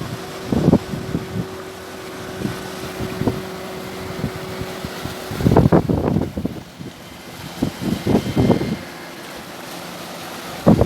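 Sea surf washing against a breakwater, with wind buffeting the microphone in gusts, the strongest about halfway through and again near eight seconds. A steady low hum runs under the first half.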